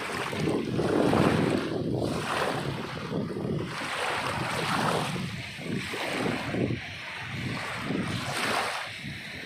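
Sea waves breaking and washing ashore, swelling and ebbing every second or two, with wind rumbling on the microphone.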